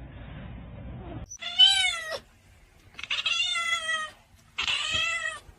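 A cat meowing three times in high-pitched calls, the middle meow the longest.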